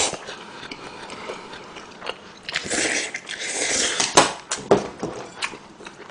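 Chewing a mouthful of instant beef noodle soup close to the microphone, with wet mouth sounds, and a few sharp clicks in the second half.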